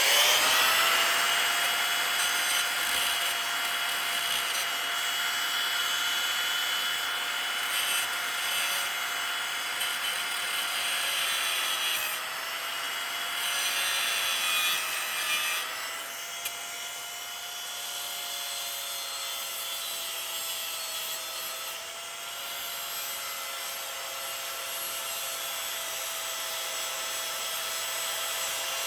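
Angle grinder spinning up and cutting metal: a steady high whine over a hissing rasp, the pitch sagging briefly twice as the disc is pressed into the cut.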